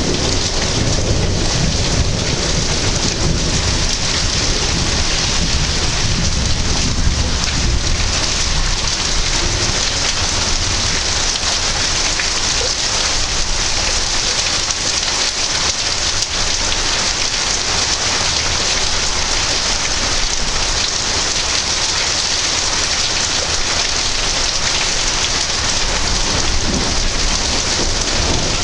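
Heavy rain falling steadily on surfaces during a thunderstorm. Low thunder rumbles underneath, strongest through the first third and then dying down.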